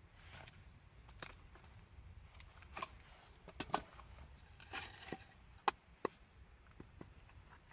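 Scattered light clicks, knocks and rustles at irregular intervals from gear or wood being handled, with the loudest sharp clicks about three and six seconds in.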